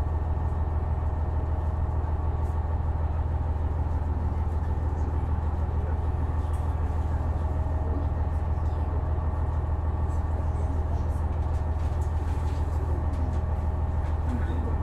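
The diesel engine of a KiHa 126 series railcar, heard from inside the car: a steady low drone that holds its pitch.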